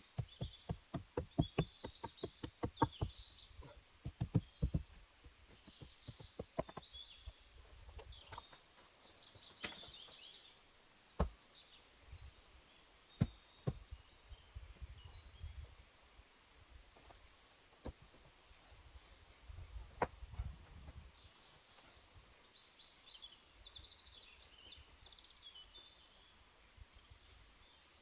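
A quick run of sharp knocks, about four a second, for the first five seconds, then a few single knocks spaced several seconds apart. Small birds chirp throughout.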